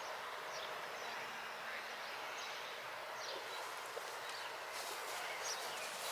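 Faint outdoor background noise with scattered short, high bird chirps.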